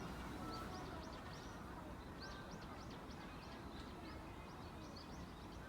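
Small birds chirping: many short, high calls scattered irregularly throughout, over a steady low background rumble.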